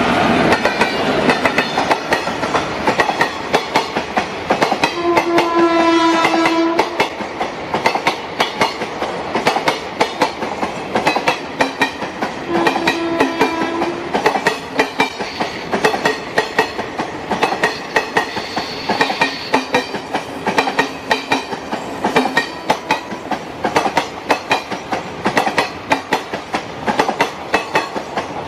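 Train running along the track, its wheels clicking rapidly over the rail joints, with a horn sounding twice, once for about two seconds about five seconds in and again more briefly about twelve seconds in.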